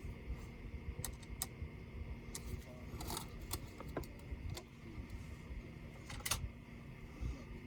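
Scattered small clicks and taps of hand tools and laptop parts being handled during disassembly. There is a short scraping rustle about three seconds in and another around six seconds, over a faint steady hum.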